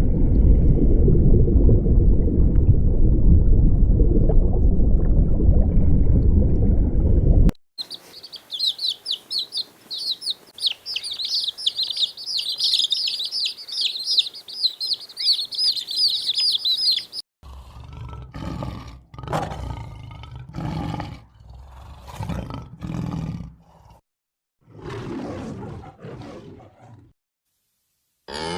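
A loud, rough, low animal growl lasting about seven seconds gives way to a dense flock of small birds twittering and chirping rapidly. About halfway through, the chirping stops and is followed by a run of short, low animal calls, one or two a second, with brief pauses.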